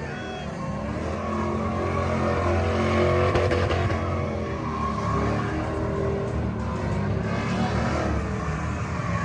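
Truck engine running and revving, its loudness swelling about three seconds in and then easing off.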